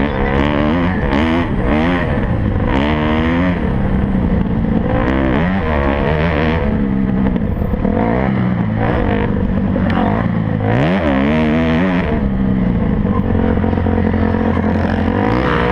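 Motocross bike engines revving hard, their pitch rising and falling over and over with throttle and gear changes, with more than one bike heard at once.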